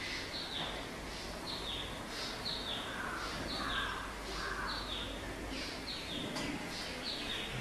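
Birds chirping: a steady run of short, falling high chirps, often in pairs, with a few lower calls about halfway through.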